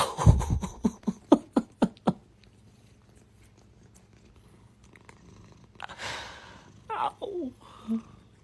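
A house cat vocalising: a quick run of short sharp sounds in the first two seconds, then a short call falling in pitch about seven seconds in.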